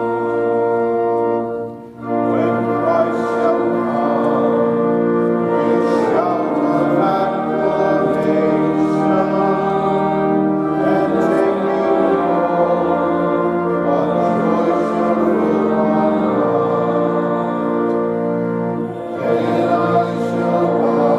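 Organ music with slow, sustained chords. There are brief breaks between phrases about two seconds in and near the end.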